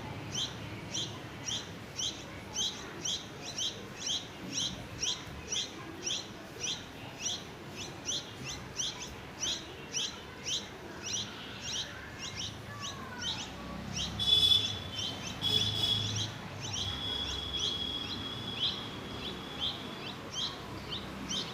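Small birds chirping: a short, high chirp repeated steadily about twice a second. From about 14 to 17 seconds in there is a louder, more continuous high-pitched calling.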